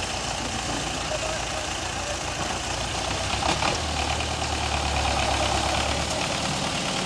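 Belarus tractor's diesel engine running steadily, a continuous low hum that grows a little stronger about four seconds in.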